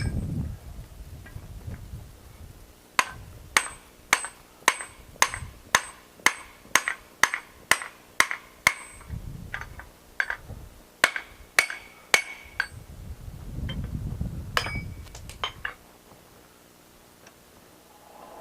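Blacksmith's hand hammer striking steel on the anvil: a steady run of sharp, ringing blows about two a second for several seconds, a short pause, another run, then a few scattered lighter taps. This is the work of drifting a hole through the piece over the anvil's bolster plate.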